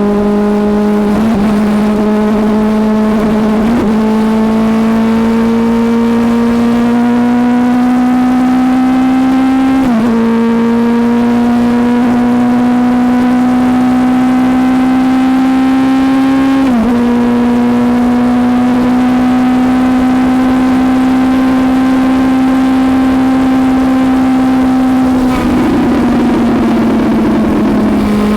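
Suzuki GSX-S750's inline-four engine pulling hard at speed, its pitch climbing slowly and dipping sharply four times as it shifts up. Near the end the throttle rolls off and the pitch falls away.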